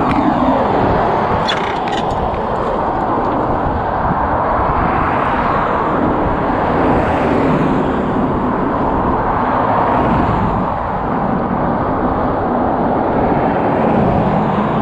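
Steady wind and road noise on a GoPro's microphone on a moving bicycle, with a few short clicks about two seconds in.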